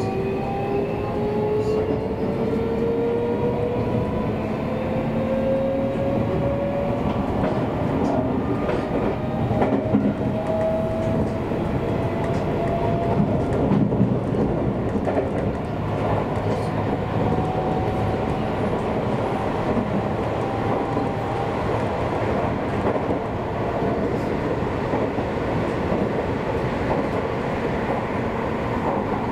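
Seibu Railway electric commuter train running: steady rumble of wheels on rail, with a motor whine rising in pitch over the first several seconds as it picks up speed. Two louder clacks come about a third and about halfway through.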